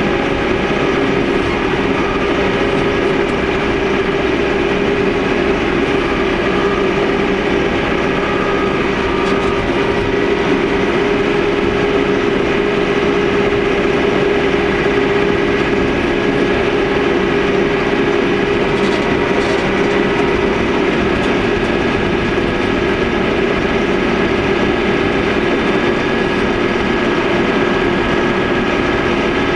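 Loader engine running steadily under work, heard from inside the cab, with a constant drone and a few steady whining tones.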